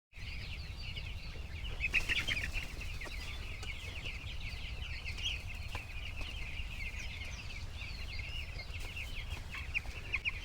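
A flock of 12-day-old broiler chicks peeping continuously, many high chirps overlapping, over a steady low rumble.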